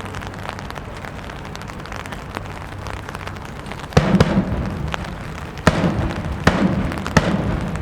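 Rain hissing steadily, then from about four seconds in five loud, irregularly spaced drum beats as the flute band's drums strike up.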